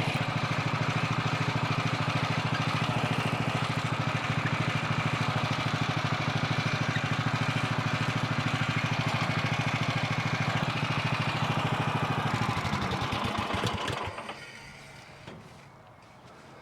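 An engine runs steadily at an even pulse, then is shut off about 13 seconds in, its firing slowing to a stop.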